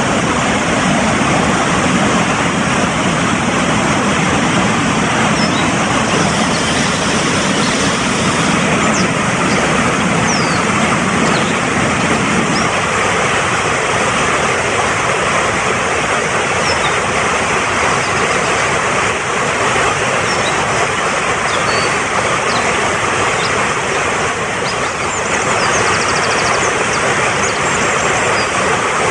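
Fast-flowing mountain stream rushing steadily, with faint short bird chirps now and then; the deeper part of the rush drops away about twelve seconds in.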